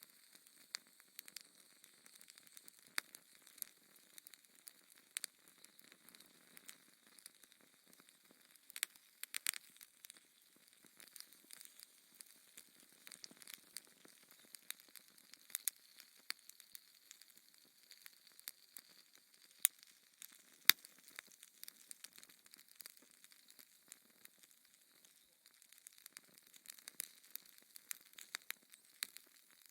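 Wood fire crackling in a fireplace: irregular sharp pops and snaps over a faint hiss, with the two loudest pops about two-thirds of the way through.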